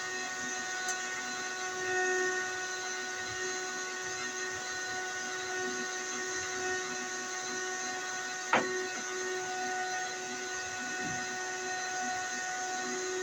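Steady mechanical hum made of several steady tones over a faint whir, with one sharp click about eight and a half seconds in.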